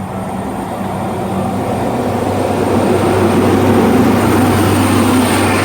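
Alishan Forest Railway train approaching and going by: a rumble of running noise that builds to its loudest about four seconds in and then eases slightly, over a steady low hum.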